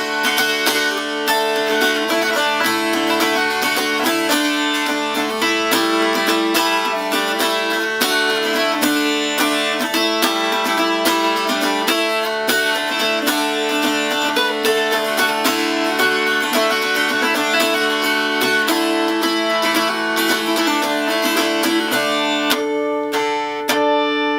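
Solid-cherry hourglass Appalachian dulcimer being played: a quick picked melody over steady ringing drone strings. The playing stops near the end and the last chord is left ringing.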